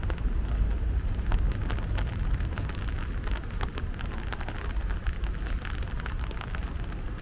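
Rain falling, heard as many quick, irregular drop ticks over a continuous low rumble.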